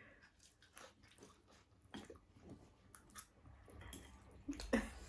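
A person chewing food close to the microphone: faint, irregular clicks and mouth noises of eating.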